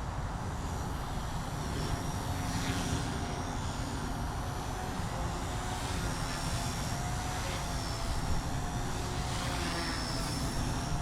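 XK K110s micro collective-pitch RC helicopter in flight: a steady electric motor and rotor whine that wavers slightly in pitch, the head speed held nearly constant by a flat 60% throttle curve.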